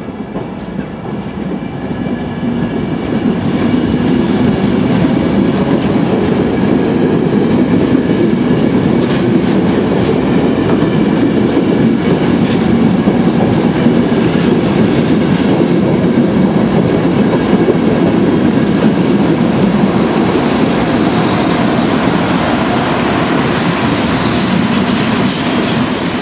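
Passenger coaches pushed by an electric locomotive rolling past close by as the train pulls out, with a heavy rumble and wheels clicking over the rail joints. The sound builds over the first few seconds, stays loud and eases slightly near the end as the locomotive passes and draws away.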